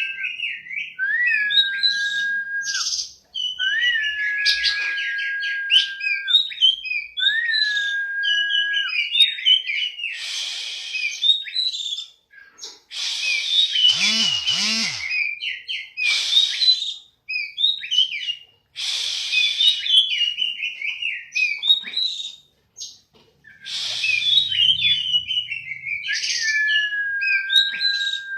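Songbird song: long, level whistled notes repeated four times in the first nine seconds and once near the end, with rapid varied chirps and trills in bursts between them, broken by short pauses.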